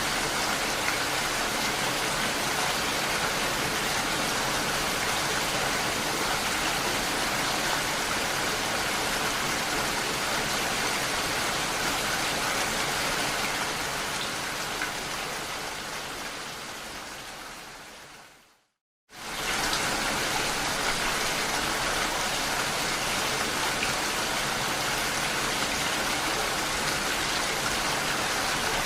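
Steady rain falling on window glass. About two-thirds of the way through, it fades out to a moment of silence and then starts again abruptly at full level, like a recording looping.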